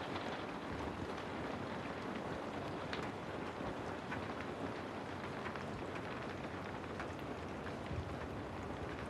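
Steady rain ambience: an even hiss of falling rain with faint scattered drop ticks.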